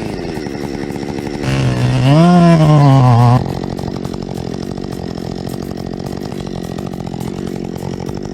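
Chainsaw engine running steadily. About a second and a half in it revs up louder, the pitch rising and then falling, and it drops back to a steady run just after three seconds.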